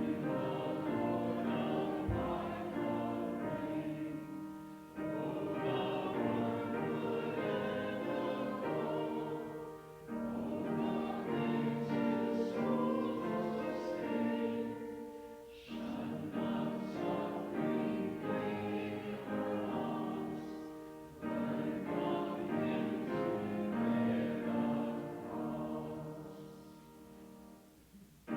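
Congregation singing a hymn together, in sustained phrases of about five seconds with short pauses for breath between them, the last phrase fading away near the end.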